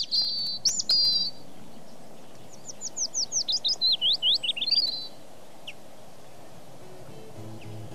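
A songbird singing: two short high trills at the start, then a quick run of sweeping whistled notes from about two and a half to five seconds in. Quiet music begins near the end.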